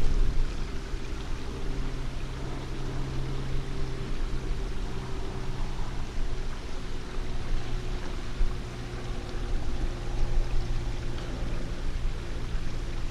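A steady low engine-like drone that holds its pitch with small drifts, over an even hiss.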